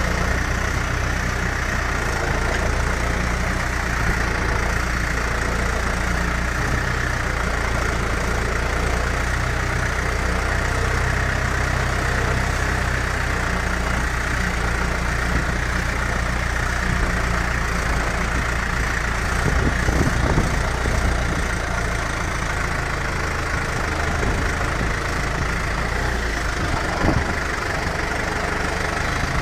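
Tractor engine running steadily at idle, with a short louder bump about two-thirds of the way through.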